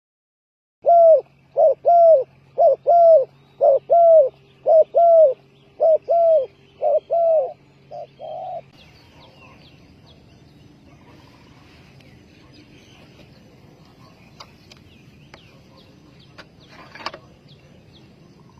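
Spotted dove cooing: a loud run of about fifteen short, arched coos, mostly in pairs, that stops about nine seconds in. Faint high chirps of small birds and a sharp click follow.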